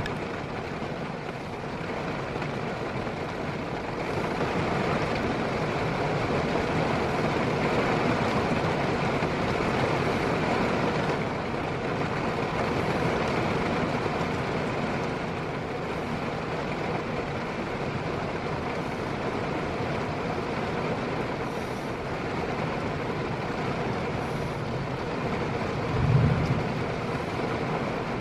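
Heavy downpour of rain hissing steadily, swelling and easing slightly, with a brief low thump near the end.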